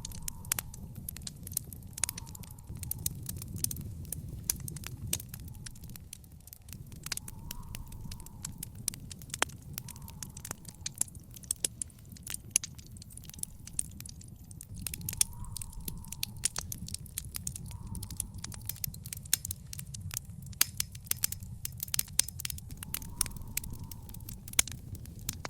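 Fire burning in an outdoor fire pit, crackling with frequent irregular sharp pops and snaps over a low steady rumble of flame.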